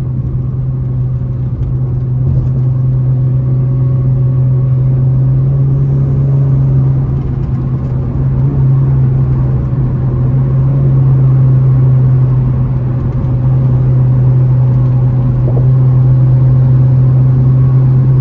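Steady low drone of an Infiniti Q50's twin-turbo V6 and road noise heard from inside the cabin while cruising, growing slightly louder over the stretch.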